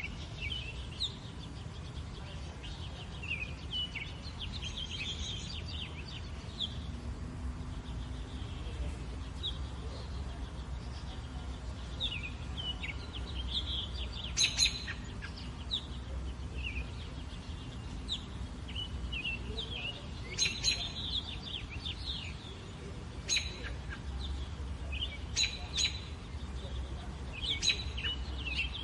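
Small birds chirping and twittering in quick, repeated calls, with a few sharper, louder chirps in the second half, over a steady low rumble.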